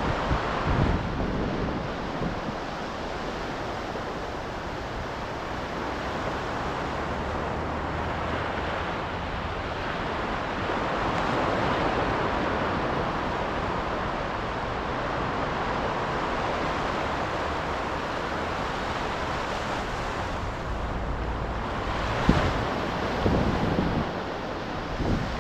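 Ocean waves breaking and washing in as a steady surf roar that swells and eases. Gusts of wind buffet the microphone near the end.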